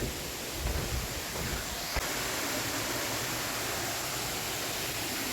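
Erawan waterfall's cascade rushing in a steady, even wash of water noise, with a few soft knocks in the first two seconds.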